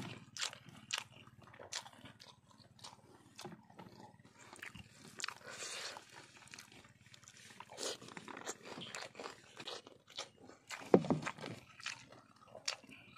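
Crunching and chewing close by as someone eats cooked river shrimp: irregular crisp crunches, with one louder knock near the end.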